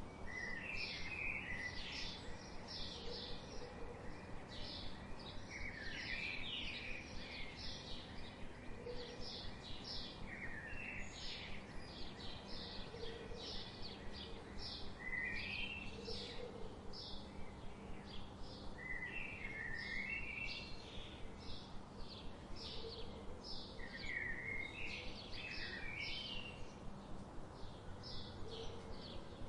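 Songbirds calling in a dense chorus: a fast run of short, high chirps, with a lower warbling phrase breaking in every few seconds, over a steady background hiss.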